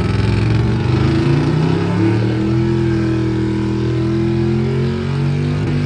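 A vehicle engine revving. Its pitch climbs over the first couple of seconds, holds steady, then drops away about five seconds in.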